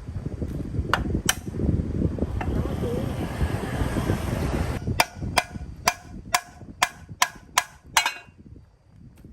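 Several seconds of low rumbling handling noise, then a quick, even run of about eight sharp hammer taps on metal, about two and a half a second.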